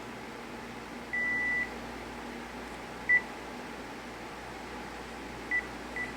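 Cordless phone beeping at one pitch while a handset is being deregistered from the base: a half-second beep about a second in, a short loud key beep about three seconds in, and two short key beeps near the end, over a steady low hiss.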